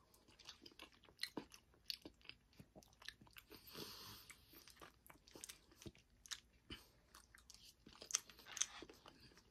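Close-up mouth sounds of someone chewing a mouthful of macaroni and cheese: faint, scattered wet clicks and smacks, with a short soft hiss about four seconds in.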